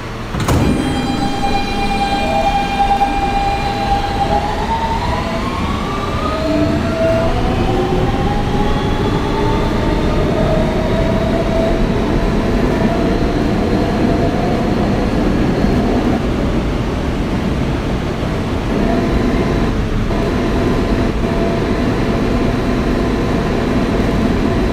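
Subway car doors shutting with a thump about half a second in, then the Siemens AC traction motors of an R160B whining as the train pulls away, the tones holding and then rising in pitch. The rest is the steady rumble of wheels on track while running between stations.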